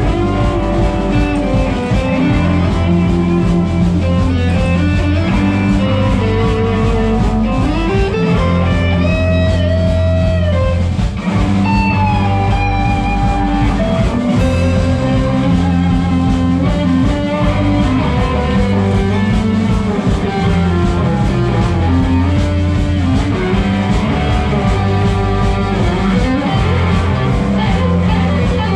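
Live rock band playing an instrumental passage: a lead guitar line with bending, gliding notes over bass and drums.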